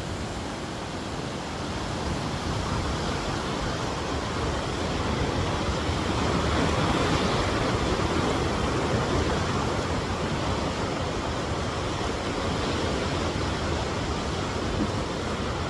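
Whitewater of the Niagara River's Whirlpool Rapids rushing as a steady, even noise that swells a little partway through.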